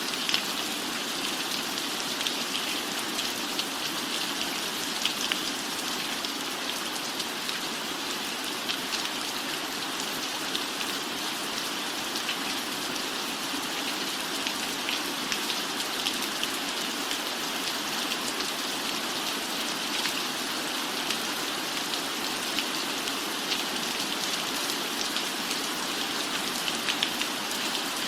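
Steady rain falling on a cabin roof: an even hiss with many small, sharp drop ticks scattered through it.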